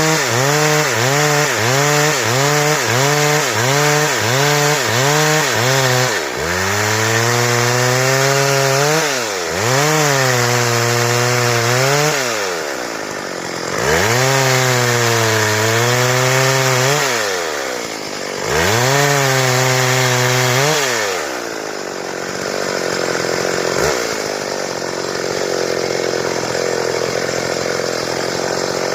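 Stihl two-stroke chainsaw cutting boards. At first its revs rise and fall about twice a second, then come four long full-throttle cuts, each sagging in pitch under load before dropping back between them. It settles to a lower, quieter running for the last several seconds.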